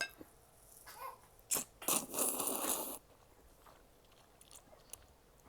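Close-miked eating sounds of a person eating ramen: a sharp click about a second and a half in, then about a second of loud mouth noise from eating a bite, starting around two seconds in.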